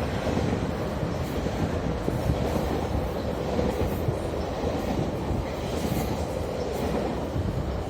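GO Transit commuter train running on the rails: a steady rumble of wheels on track, with faint high ticks scattered through it.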